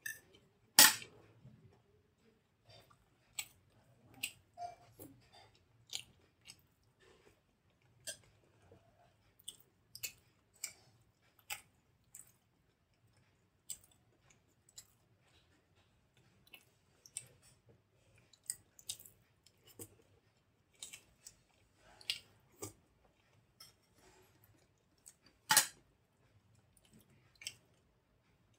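Close-miked eating sounds of soft idli with coconut chutney and sambar: irregular wet chewing smacks and mouth clicks. Two sharper, louder clicks come about a second in and near the end.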